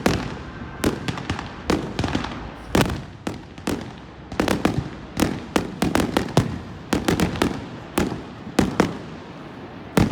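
Fireworks exploding in a dense, irregular barrage of sharp bangs, about two a second, each trailing off in an echo.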